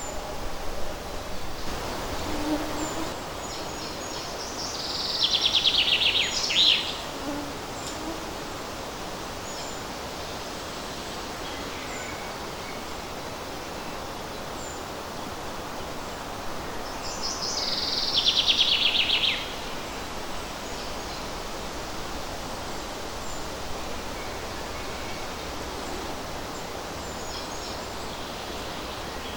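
Forest songbird singing twice, each song a rapid trill of quick notes falling in pitch and lasting about two seconds, the songs some twelve seconds apart, with faint chirps from other birds between them. A steady hiss of light breeze in the leaves runs underneath.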